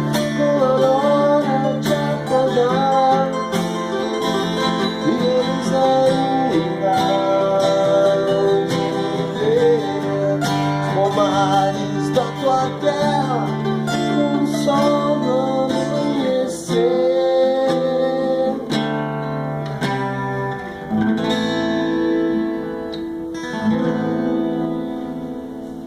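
Acoustic guitar being played, a melody of held and sliding notes over chords, dying away near the end.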